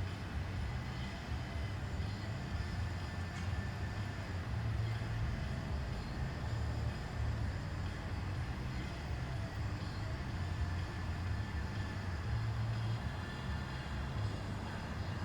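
Steady low rumble of a car driving, heard from inside the cabin: road and engine noise with no break.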